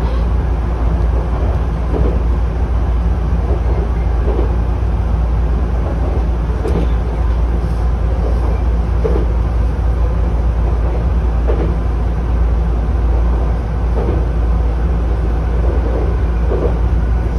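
Chichibu Railway 7500-series electric train running along the line, a steady low rumble of wheels and running gear heard from inside the car. The track here is long welded rail, so there is no clickety-clack of rail joints.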